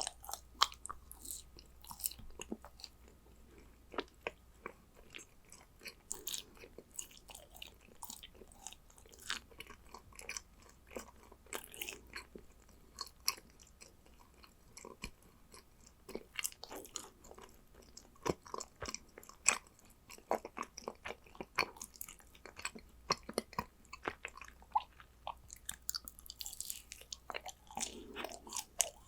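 A person chewing yakgwa, dense, sticky Korean honey cookies, close to the microphone: a steady run of short clicks and mouth sounds.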